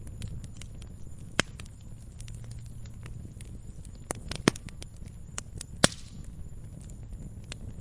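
Wood fire crackling and popping in a fireplace: irregular sharp snaps over a steady low rumble of flames, with three louder pops, the loudest near the end.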